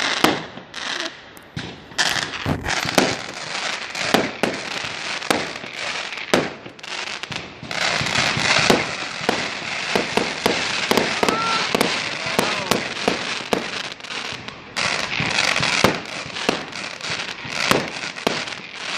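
Fireworks display: a rapid, continuous run of sharp bangs and crackling bursts from aerial shells, some bangs louder than others.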